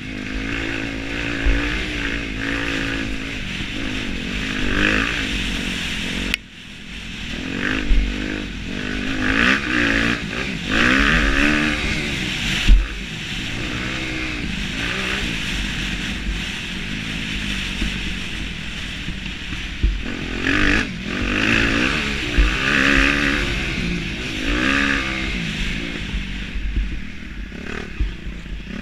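Motocross bike engine revving hard and dropping back again and again as it is ridden round the track, its pitch climbing and falling with the throttle and gear changes, over a steady rushing hiss. A few sharp knocks stand out, the loudest a little before halfway.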